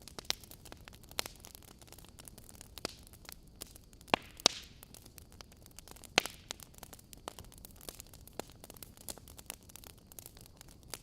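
Wood fire crackling: scattered sharp pops and snaps over a soft steady hiss, with three louder pops around the middle.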